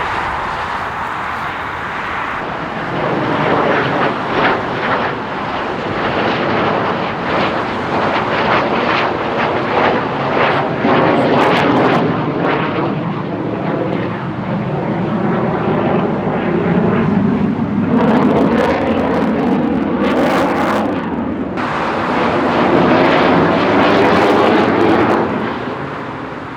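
Fixed-wing aircraft engine noise at an airshow display, continuous and loud, swelling and fading with shifting pitch as the aircraft flies past.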